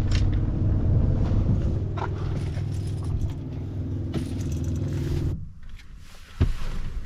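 Truck engine running steadily with a low hum, cutting off abruptly about five seconds in; a few light clicks and a knock follow.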